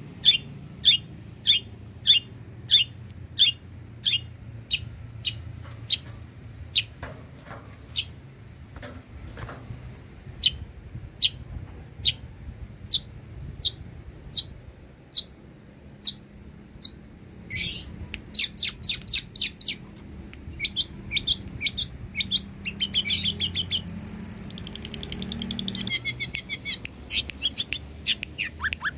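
Long-tailed shrike (cendet) singing: a string of sharp, downward-sliding chirps about two a second, then faster trills and chattering phrases in the second half.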